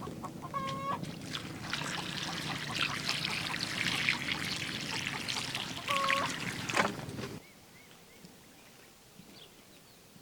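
Two short pitched bird calls, one near the start and one about six seconds in, over a steady hissing noise with scattered clicks that cuts off suddenly about seven seconds in, leaving faint background.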